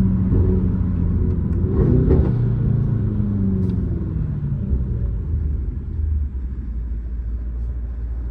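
Mercedes-AMG GT63 S's straight-piped twin-turbo V8 heard from inside the cabin while driving. The engine pitch climbs about two seconds in, then eases off to a low steady drone from about six seconds on.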